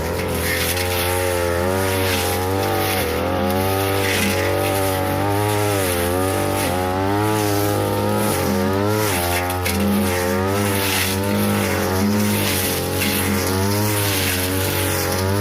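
42cc two-stroke brush cutter with a metal blade running at high speed, its engine pitch sagging and recovering again and again as the blade bites into tall grass and woody brush.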